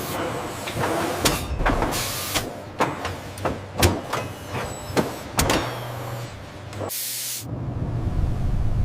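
Factory machinery clattering, with sharp knocks and clicks and short bursts of hiss like pneumatic air; about seven seconds in it changes suddenly to a steady low hum.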